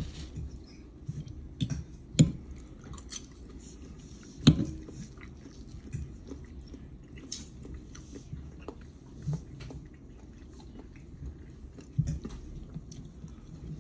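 A person chewing and eating a forkful of chicken, with scattered sharp clicks and knocks of a fork against a ceramic plate, the loudest about four and a half seconds in.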